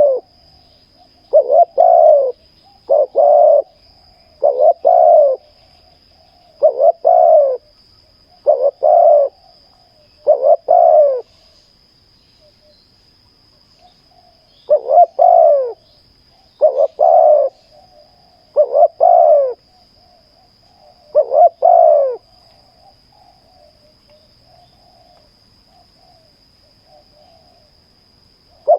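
Spotted doves cooing in loud phrases of two or three notes, repeated about every two seconds, with a pause of a few seconds midway and only soft notes near the end.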